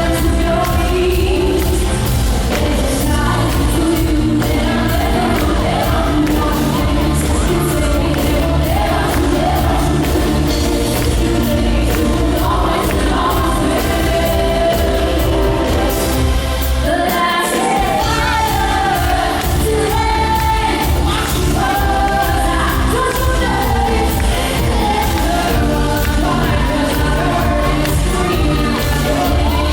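Live pop concert performance: a female singer with full band backing and a heavy bass line. The bass drops out for a moment a little past halfway, then comes back in.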